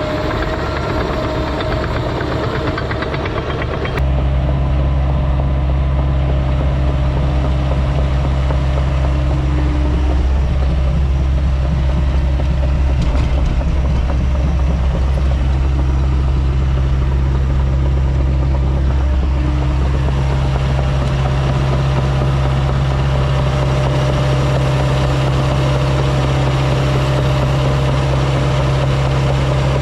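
Kubota heavy-equipment diesel engine running steadily under load with a constant low hum, louder from about four seconds in.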